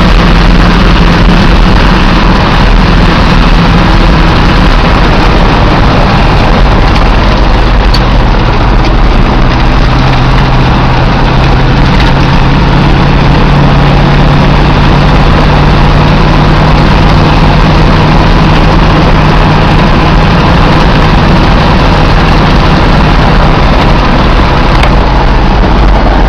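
1988 Dodge truck's 360 small-block V8 running loudly at a steady idle, its pitch drifting only slightly.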